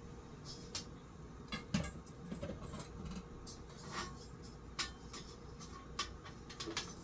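Irregular light clinks and clicks of metal ceiling-fan parts and tools being handled, with one louder knock about two seconds in.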